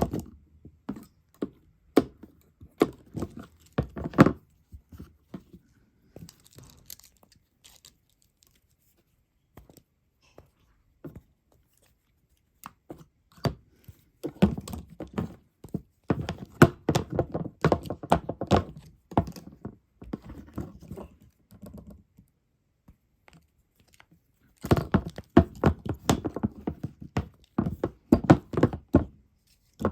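Insects knocking and tapping against a hard surface: rapid, irregular clicks in dense bursts, with quieter stretches between.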